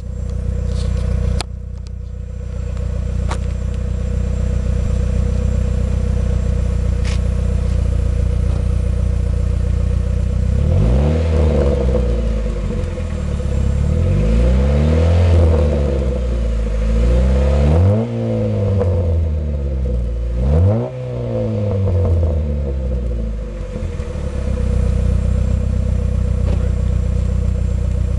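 Neon's four-cylinder engine through a 2.5-inch Dynomax exhaust with a Magnaflow muffler, idling steadily, then revved up and down several times, including two quick throttle blips, before settling back to idle.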